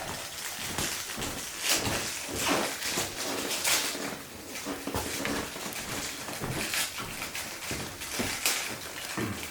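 Wood fire in a stove crackling, with irregular sharp pops and snaps.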